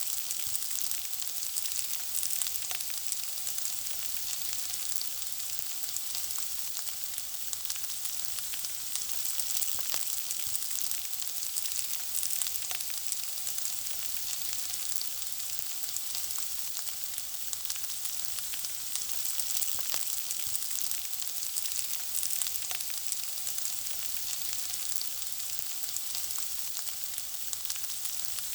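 Food frying: a steady high sizzle, scattered with small crackles and pops.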